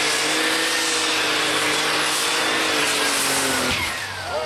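Methanol-fuelled pulling tractor running flat out under load, its engine note sagging slightly. About three-quarters of the way through, the engine winds down with a quickly falling pitch and the sound drops off as the run ends, with one of its turbos giving up.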